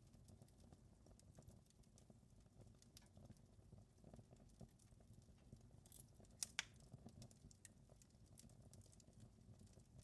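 Wood fire crackling in a fireplace, faint: a low rumble with scattered small pops and crackles, and a couple of sharper pops a little past the middle.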